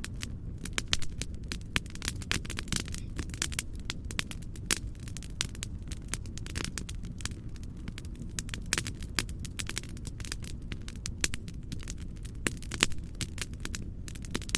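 Wood fire crackling in a fireplace, with irregular sharp pops and snaps, several a second, over a steady low noise.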